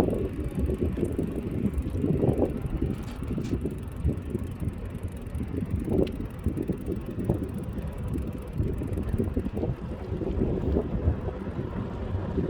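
Wind buffeting the microphone of a camera carried on a moving bicycle, a rough, uneven low rumble.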